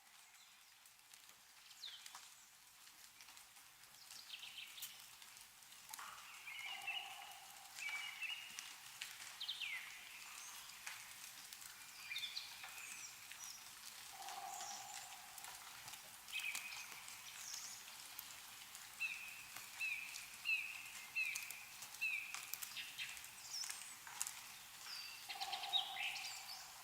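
Songbirds chirping and calling, with a run of short repeated notes, about two a second, in the second half, over scattered light drips of melting snow falling from trees. A lower, held sound comes three times.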